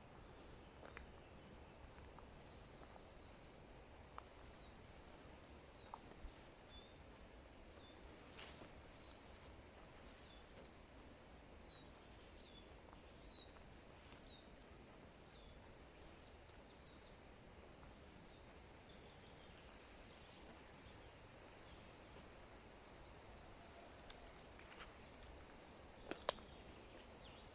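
Faint forest ambience: small birds giving short, high chirps one after another through the first half or so, over a low steady rumble. A few sharp clicks, the loudest near the end.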